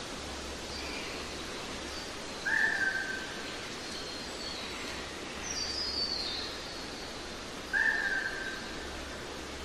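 Birds calling over a steady background hiss. Two louder whistled calls come about five seconds apart, each short and nearly level in pitch. Between them are thinner, higher calls that drop in quick steps.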